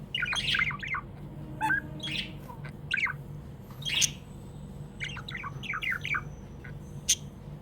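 Pet budgerigars chirping and squawking, a busy run of short, quick chirps with hardly a pause. A sharp click near the end is the loudest sound, over a steady low hum.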